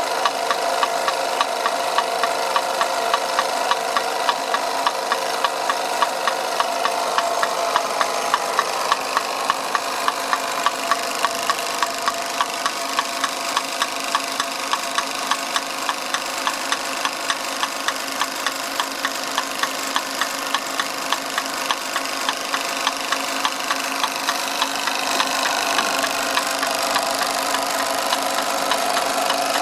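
A 1930s Bing twin-cylinder toy steam engine running steadily under steam, driving its toy models, with a regular knock of about three clicks a second over a steady mechanical running noise.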